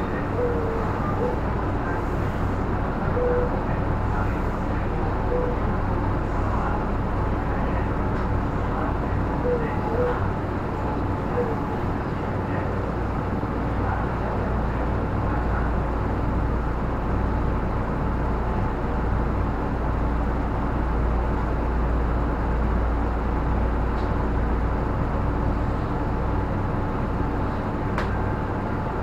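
Steady low rumble and hum of a Tobu Skytree Line commuter train heard from inside the carriage, with a few faint short squeaks in the first dozen seconds.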